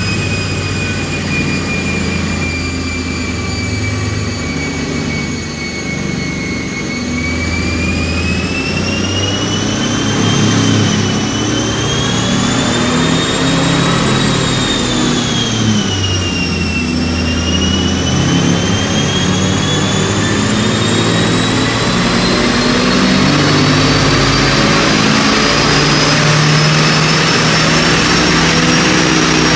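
Turbocharged Honda City i-VTEC engine running under load on a dyno while it is tuned, with a high whine that rises and falls with the revs. The whine sags over the first several seconds, climbs, dips twice, then rises steadily to a higher pitch. The engine note gets louder about ten seconds in.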